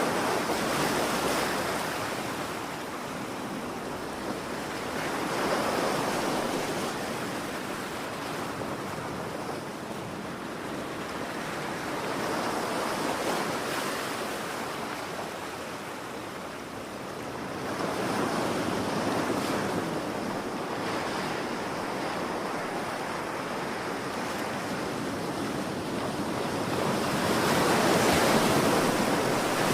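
Ocean waves breaking and washing on a shore, a steady rush of surf that swells and ebbs every few seconds, with the biggest surge near the end.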